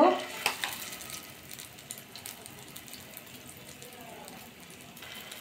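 Eggplant rings frying in hot mustard oil: a low sizzle with scattered crackling pops, and light clicks of a metal spoon as the egg-and-eggplant filling is spooned into the rings.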